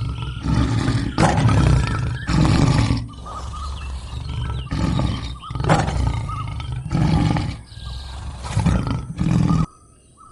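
A big cat roaring over and over, about once a second, each roar deep and loud. The run cuts off suddenly near the end.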